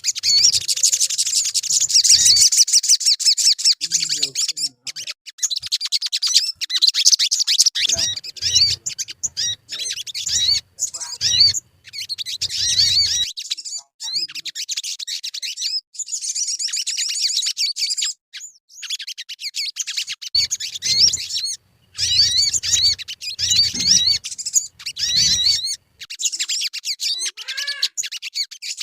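Sogon bird song: rapid, dense high-pitched chirping and trilling phrases that come in stretches broken by short gaps. Low rumbles sound underneath now and then.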